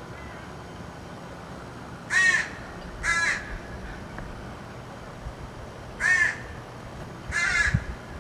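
A crow cawing four times, single harsh caws spaced one to three seconds apart.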